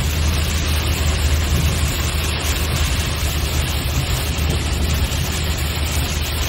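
Car driving on a wet freeway with standing water: a steady low road rumble with an even hiss of tyres through water.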